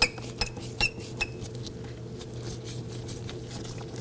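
Phillips screwdriver working out the door panel screws: four sharp metallic clinks, some with a short ring, in the first second and a half, then faint ticking.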